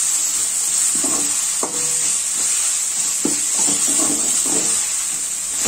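Chopped onion, tomato and ginger-garlic paste sizzling in hot oil in a metal kadai while a steel ladle stirs and scrapes across the pan, with a few sharp clicks of the ladle on the metal. The mix is being sautéed until the raw smell of the ginger-garlic paste goes.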